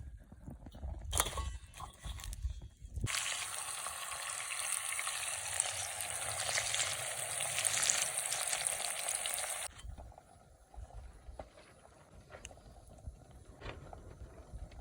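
Ajillo sizzling hard in hot olive oil, a dense spitting hiss that starts and stops abruptly and lasts about seven seconds. Before and after it, sparse crackles from the wood fire.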